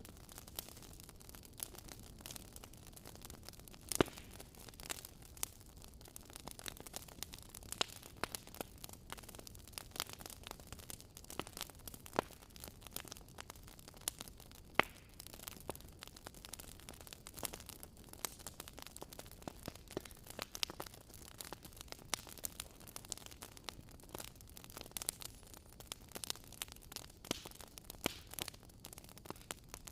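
Fire in a fireplace crackling: many small, irregular pops and snaps over a soft hiss, with a few louder pops standing out, one about four seconds in and another near the middle.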